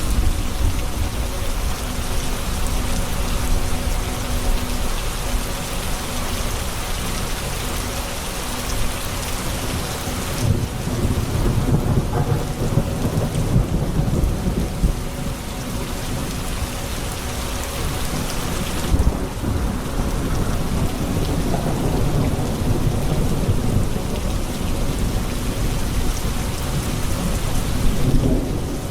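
Steady heavy rain hissing down during a thunderstorm, with low rolling thunder that swells about ten seconds in and rumbles on through the second half.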